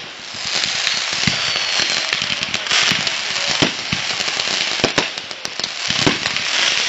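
Fireworks going off: a continuous hissing spray with sharp cracks scattered through it, about four loud ones.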